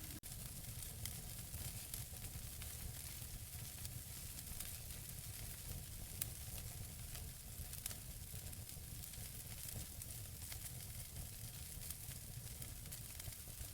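Wood logs burning in a fireplace: a steady soft hiss and low rumble of the fire with frequent small crackles and pops, a couple of sharper pops about six and eight seconds in.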